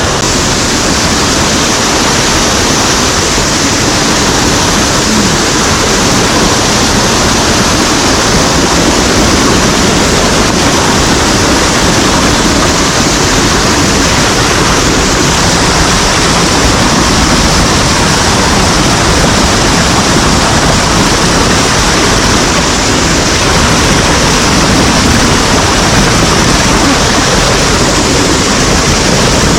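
Rushing water of a mountain stream, loud and steady, close to the microphone.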